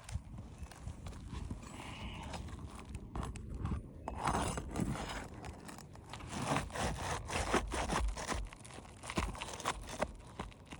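Asphalt roof shingle being worked loose from its nails: irregular scraping, crunching and short knocks, growing busier partway through.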